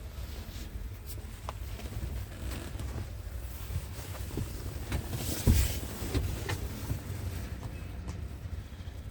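Wind buffeting the microphone as a low rumble, with scattered knocks and clicks and one louder thump about halfway through.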